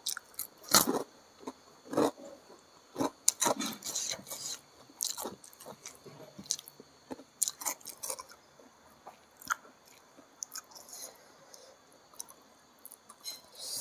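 Close-miked chewing of a mouthful of rice and side dishes eaten by hand: irregular wet chewing and biting sounds, louder and more frequent in the first half and sparser later.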